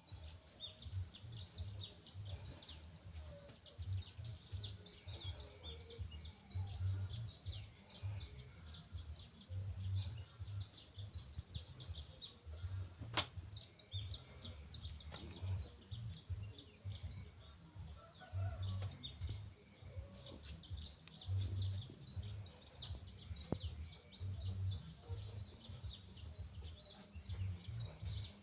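Many small birds chirping at once in a dense, continuous chorus of quick high chirps, over a low pulsing rumble. A single sharp click sounds about halfway through.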